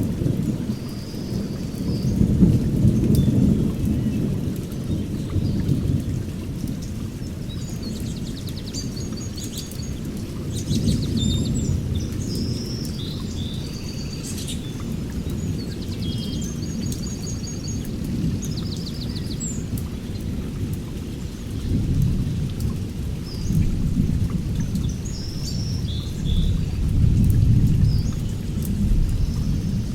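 Songbirds chirping and trilling, short high calls scattered throughout and thickest in the middle. Beneath them runs a continuous low rumble that swells and fades every few seconds.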